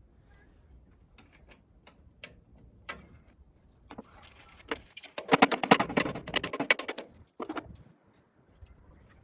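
Hand-tool work on metal: scattered clicks and knocks, then a loud run of rapid clicking for about two seconds midway, followed by a couple of knocks.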